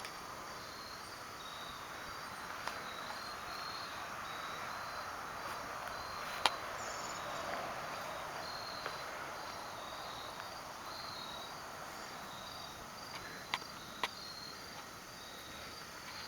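Insects, crickets by their sound, chirping steadily in a repeated high-pitched pattern over a faint background hiss, with a few sharp clicks, the loudest about six seconds in and two more near the end.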